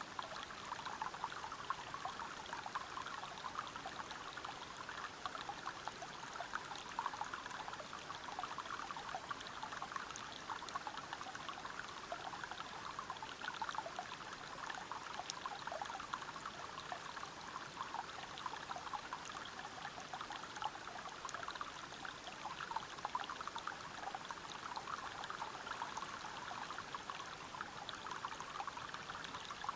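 Waterfall and river water flowing over rocks: a steady rush of splashing water with many small trickles and drips over it.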